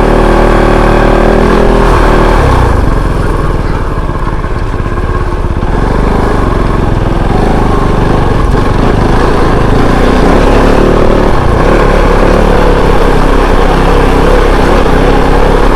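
Kove 450 Rally's single-cylinder engine running as the motorcycle is ridden off-road, its note rising and falling with the throttle over a steady low rumble.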